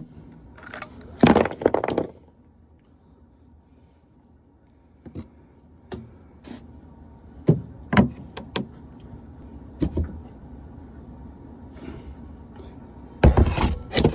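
Scattered knocks, clunks and rattles of tools and plastic drain pipe being handled while the clogged condensate line is readied for cutting. A louder rough burst comes near the end.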